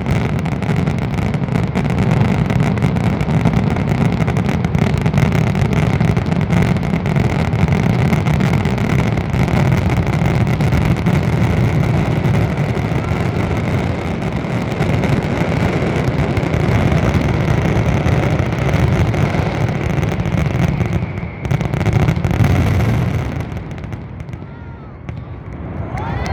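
Finale of an aerial fireworks display: a dense, continuous barrage of firework bursts and crackling with a heavy rumble. Near the end the barrage dies away and the crowd's cheers and whistles begin.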